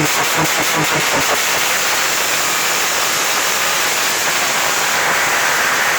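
Formula Mazda race car's 13B two-rotor rotary engine running loudly. Choppy, evenly spaced pulses for about the first second, then a steady, even sound.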